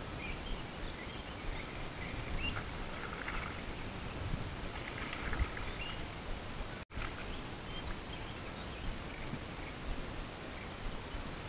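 Birds calling over a steady outdoor hiss. There are scattered short chirps and, twice, a quick run of high descending whistles. The sound cuts out for an instant a little past halfway.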